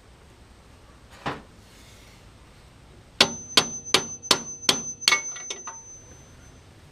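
A hammer striking steel on a tractor's front loader: a single knock, then a quick run of six hard blows about three a second, tapering into a few lighter taps, with the struck metal ringing on a high tone under them.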